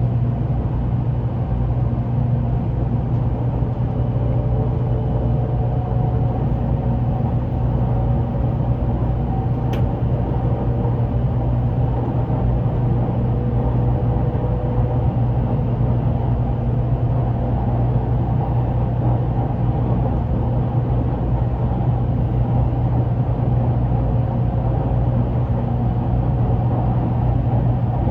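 Steady low rumble and hum inside a Shinkansen train carriage, heard from the passenger cabin as the train runs.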